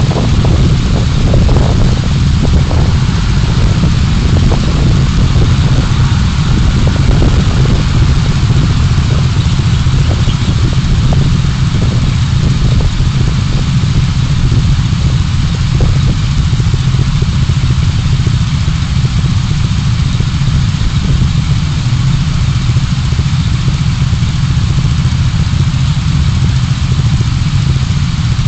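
Car driving in city traffic, recorded by a dashcam: a steady, loud, low engine and road rumble, with light ticks and knocks through roughly the first half.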